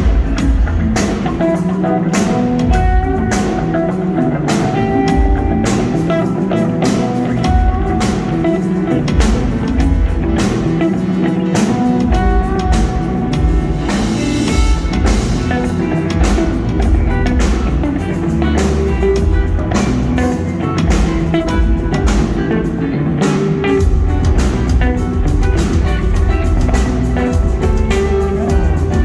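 A rock band playing live, with electric guitar over bass and a drum kit keeping a steady beat.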